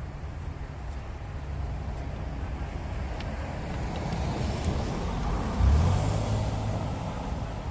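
A motor vehicle going by: a steady low rumble that swells to its loudest about six seconds in, then fades.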